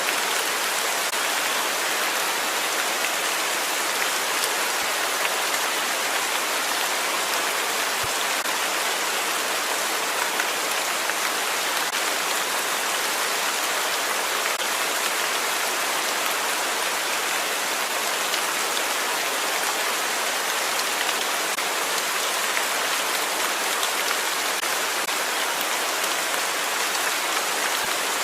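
Steady rainfall, an even hiss of many drops falling on a surface.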